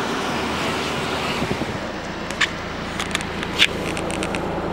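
Steady low hum of a Skoda car's engine under a rushing noise. From about halfway in come several sharp clicks, one louder near the end.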